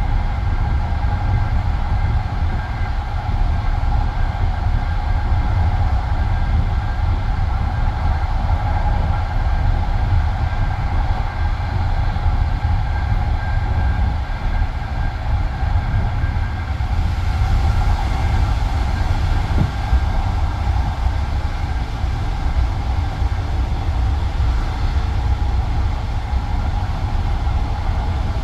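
Passenger train carriage rolling along at speed, heard from inside: a steady low rumble of wheels on rail with a faint constant whine, getting a little brighter and hissier about 17 seconds in.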